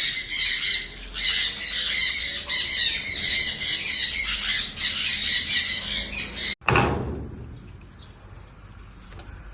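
Parrots squawking and chattering loudly and continuously in high-pitched calls, cutting off abruptly about two-thirds of the way through, after which only faint scattered chirps remain.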